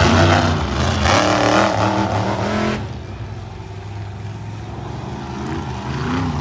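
Monster truck engine revving hard with pitch rising and falling, easing off about three seconds in, then revving up again near the end.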